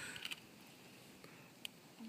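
Quiet ambience on a calm river, with a soft hiss at the very start and a single faint click near the end.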